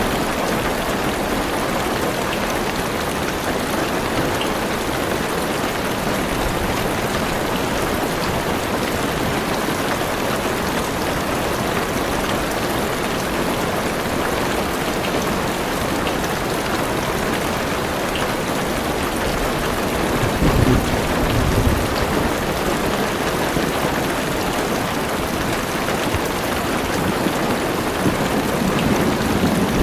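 Heavy rain drumming steadily on a car's roof and windows, heard from inside the car. A low rumble of thunder swells about twenty seconds in, and another begins near the end.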